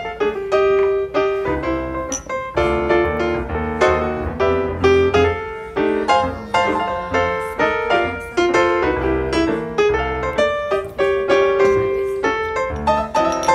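Background piano music, a quick succession of notes.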